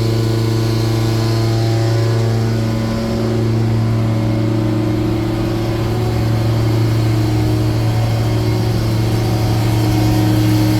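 The Cummins diesel engine of a 2010 Freightliner M2 truck idling steadily, a constant low hum that dips slightly about three seconds in.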